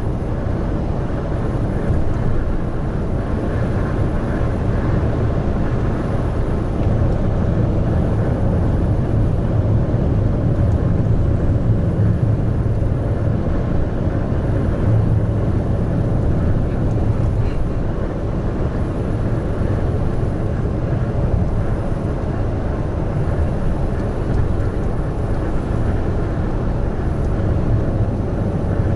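Large truck cruising on the expressway: a steady low engine drone mixed with tyre and road noise, holding even throughout.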